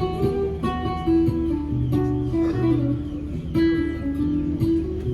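Acoustic guitar music, notes and chords plucked and strummed on a steady rhythm.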